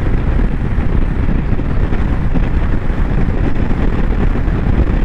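Royal Enfield Bullet 350 single-cylinder motorcycle running steadily at road speed, with wind rushing and buffeting over the microphone as a loud, even low rumble.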